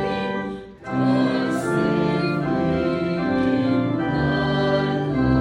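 Voices singing a hymn with organ accompaniment, held notes with a short break between phrases about a second in.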